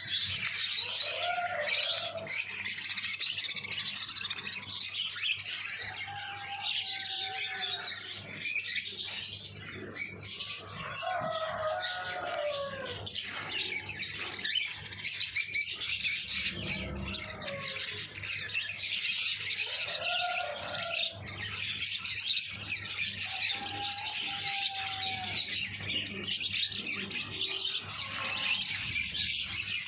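A flock of caged cockatiels chirping and chattering without pause, with a lower, wavering call every few seconds.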